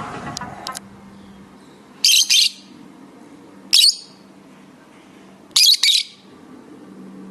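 Lovebirds giving three loud, harsh, shrill squawks, about two seconds apart, the last a quick double call, over a faint steady low hum.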